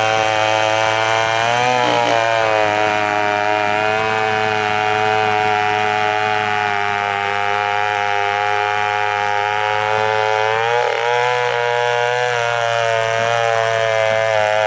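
Two-stroke chainsaw engine running at high revs, its pitch sagging briefly and recovering about two seconds in and again near eleven seconds, as the chain bites into wood.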